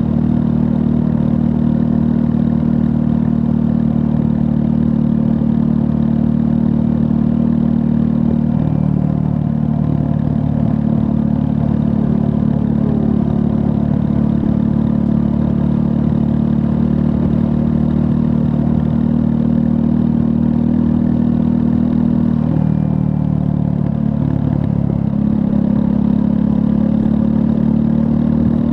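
2024 Triumph Scrambler 400 X's 398 cc liquid-cooled single-cylinder engine running steadily on the move. Its pitch shifts briefly twice, about nine seconds in and again some twenty-two seconds in.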